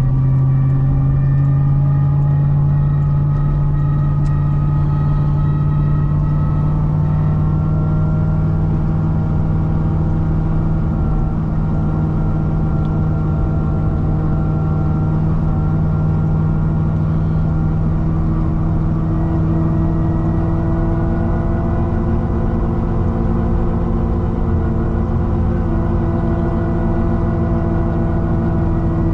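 Supercharged LS9 V8 of a modified C6 Corvette ZR1 running under steady highway cruise with a continuous drone. Its pitch rises gently over the first several seconds, then holds level.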